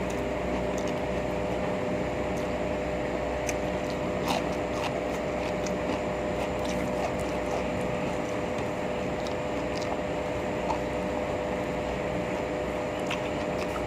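Steady hum with a few small clicks scattered through it.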